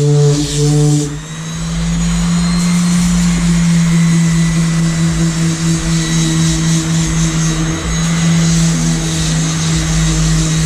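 Electric power sander running steadily, with a constant low hum and faint high whining tones over a rushing noise.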